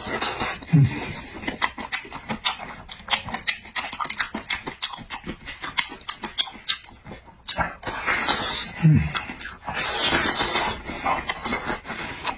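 Close-miked eating sounds: rapid, irregular wet chewing, smacking and slurping clicks, with two short low grunts, one about a second in and one near the end.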